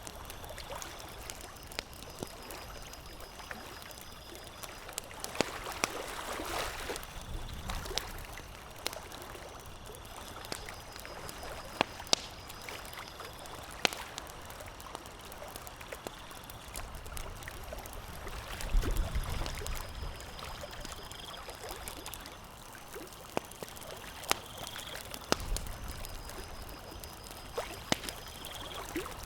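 Campfire crackling: scattered sharp pops and snaps over a steady hissing, watery-sounding background, with a few low swells.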